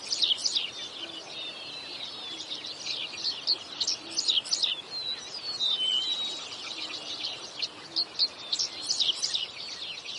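Several songbirds singing at once in a dense, overlapping chorus of quick high chips, trills and short whistled notes.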